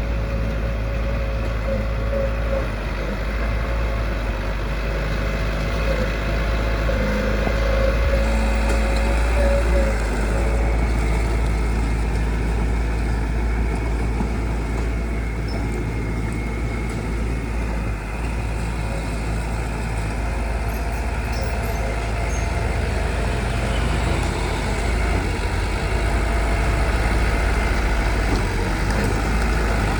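Heavy construction machinery's engine running steadily, with a thin whine over it for the first several seconds.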